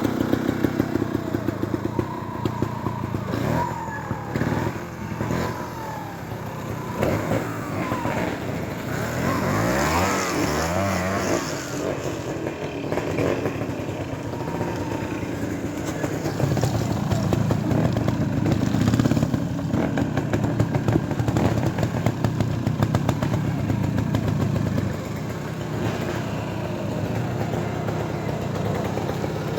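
Trials motorcycle engine running and being blipped, the revs rising and falling as the bike climbs through an obstacle section, louder for a few seconds past the middle.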